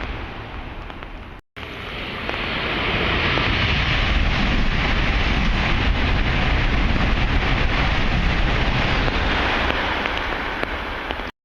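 A Tohoku Shinkansen train rushing past at speed. The rush builds over a couple of seconds, holds loud for several seconds and eases off before cutting off abruptly. A brief break about a second and a half in separates it from a different noise just before.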